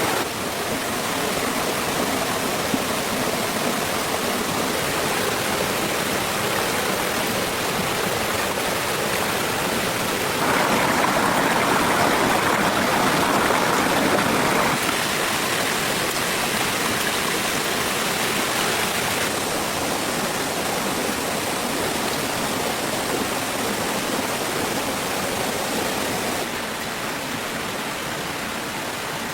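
Steady rushing of flowing water, with sudden changes in level a few times.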